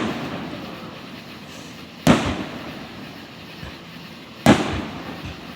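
Two firework shells bursting overhead, about two and a half seconds apart, each sharp bang dying away slowly in a rumbling echo.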